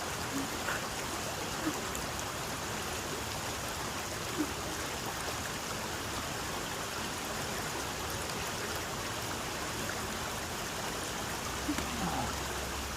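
Running water rushing steadily, with a few faint brief sounds over it.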